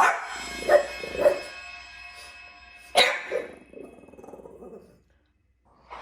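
Dog barking: a few short barks in the first second and a half, two more about three seconds in, then a lower rough sound that stops about five seconds in.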